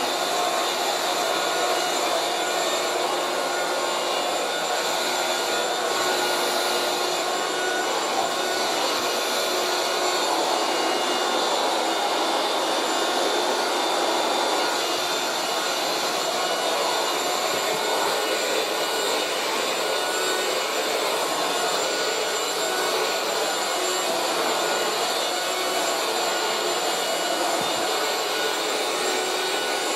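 A 1980s Moulinex 237/320 handheld vacuum cleaner running steadily, its motor giving an even, unbroken whine that is not loud.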